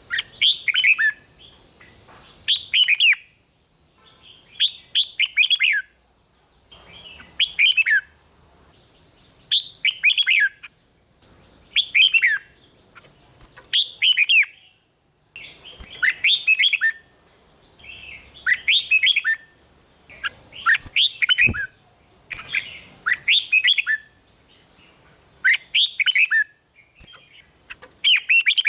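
Red-whiskered bulbul singing: short, quick phrases of falling notes, repeated about every two seconds.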